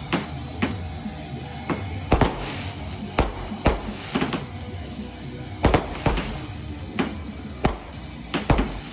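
Fireworks going off: about a dozen sharp bangs at irregular intervals, some followed by a hissing crackle, over music playing.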